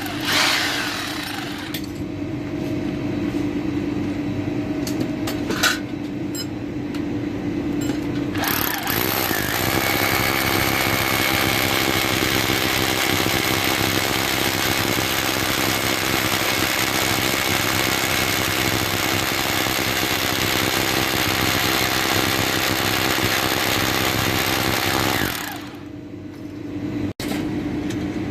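A power tool running in long steady stretches, louder and harsher from about nine seconds in, dropping off briefly near the end, then running again.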